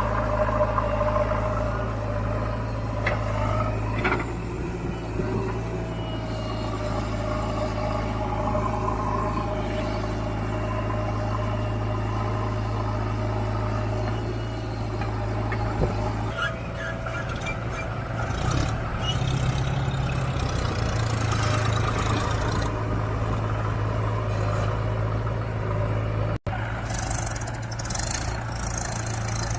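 Tractor diesel engines running under load as the tractors work in sand. The engine note changes about halfway through, and there is a brief break near the end.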